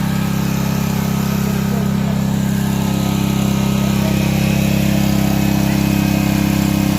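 Portable gasoline generator running at a steady speed: a loud, even engine hum.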